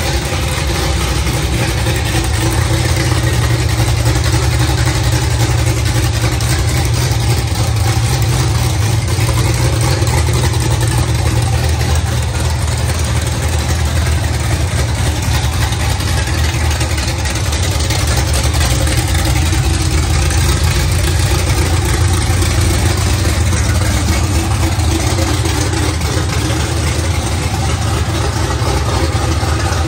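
427 LSX V8 idling steadily with a deep, even rumble.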